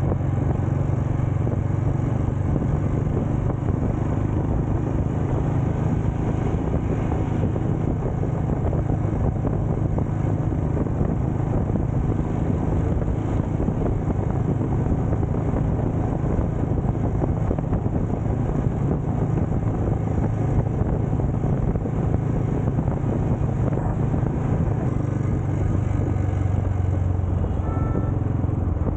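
Motorcycle engine running steadily: a constant low drone with no clear changes in revs.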